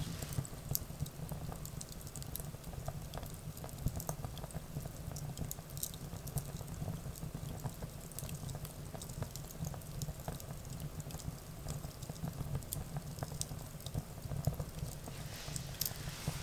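Wood fire burning, with a steady low rumble and frequent crackles and pops; a soft hiss swells briefly near the end.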